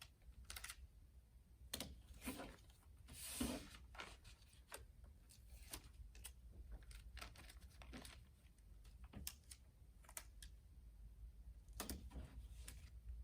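Faint, scattered rustling and crinkling of thin plastic poly bags and sticker sheets as stickers are peeled off and pressed onto the bags, with a louder rustle about three seconds in.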